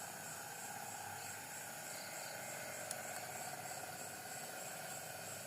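Steady night-time chorus of insects chirring in several continuous pulsing layers, with a single faint click about three seconds in.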